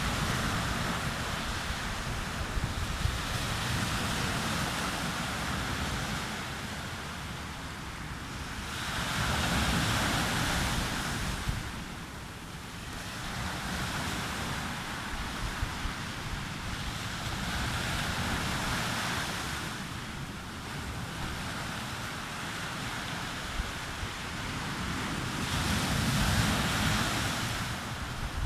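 Sea waves breaking and washing on a beach, the surf swelling and falling back every few seconds, with wind buffeting the microphone.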